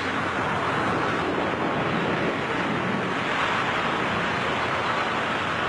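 Steady rushing wind over a skydiver's microphone in freefall.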